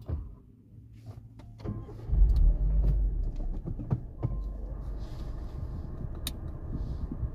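Renault Megane 3's K4M 1.6 engine, running on LPG, being restarted: it catches about two seconds in with a short flare of revs, then settles to a steady idle. After the restart it runs normally, for now without the fourth-cylinder misfire.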